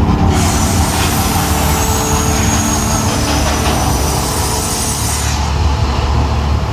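Mirage volcano show eruption: a loud, deep, steady rumble with held low tones. A rushing hiss rides over it from just after the start until about five seconds in.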